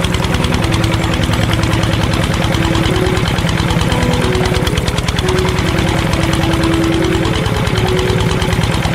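Tractor engine running steadily with a fast, even chugging knock. Short held tones come and go over it, stepping up and down in pitch.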